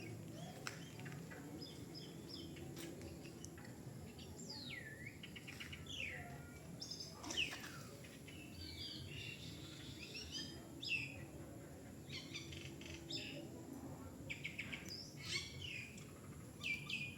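Several birds calling: chirps, sweeping whistled notes and fast trills, one after another, over a steady low background rumble.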